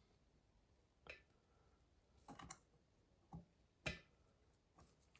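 Faint, scattered clicks and taps of small tools and parts being handled inside a MacBook Pro during disassembly: a few sharp clicks, a quick double click about halfway, the loudest near the end.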